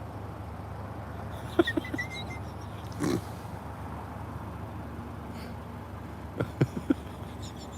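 Low steady hum of a car idling, with a few short clicks and knocks: a cluster with a brief squeak about a second and a half in, a short rustle around three seconds, and a quick run of clicks a little past six seconds.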